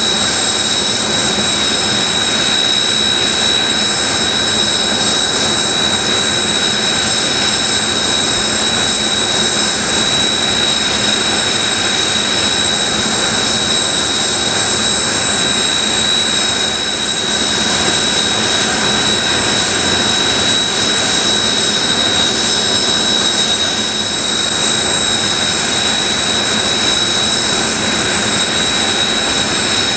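Kawasaki T-4 jet trainers' turbofan engines idling: a steady jet roar with a high, constant whine.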